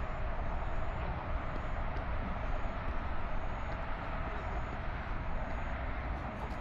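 Steady outdoor noise with a fluctuating low rumble and no distinct events.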